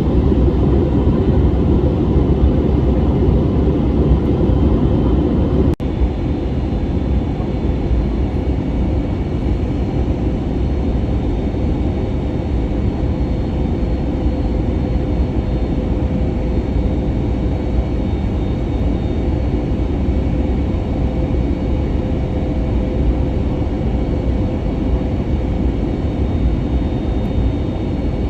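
Steady roar of an Airbus A320neo's engines and airflow heard from inside the passenger cabin in flight, with faint steady tones over the rushing noise. A brief dropout comes about six seconds in, after which it runs a little quieter.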